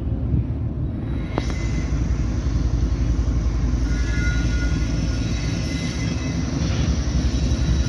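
Diesel locomotive hauling a freight train as it approaches, a steady low rumble of engine and rolling wagons. Faint high thin tones join about halfway through.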